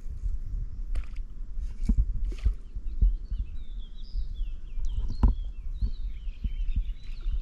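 Small birds warbling and twittering from about halfway through, over a low rumble on the microphone and a few sharp knocks, the loudest about five seconds in.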